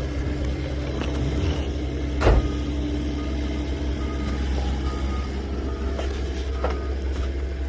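Old GMC logging truck's engine running steadily with a low, even hum, and a single sharp knock about two seconds in.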